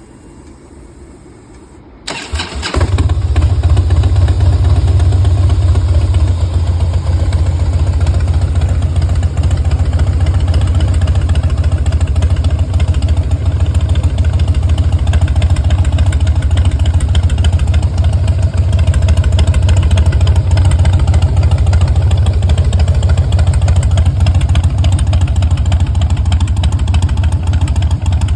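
A 2010 Harley-Davidson Softail Custom's Twin Cam 96 V-twin, fitted with Vance & Hines slip-on mufflers, is cranked by its starter about two seconds in and catches. It then idles steadily with a deep, loud exhaust note.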